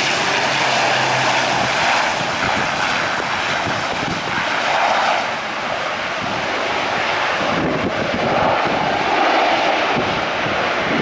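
Aircraft engine noise, loud and steady, swelling slightly about halfway through and again near the end.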